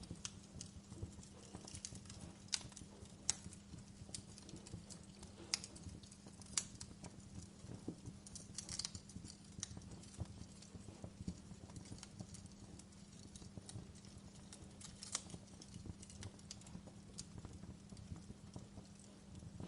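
Wood fire burning in a fireplace: a steady low rumble with irregular crackles and sharp pops, a few louder ones scattered through.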